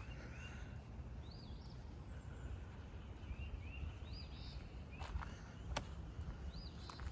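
A bird repeating a short, high chirping phrase every couple of seconds over a steady low rumble, with two sharp clicks a little after the middle.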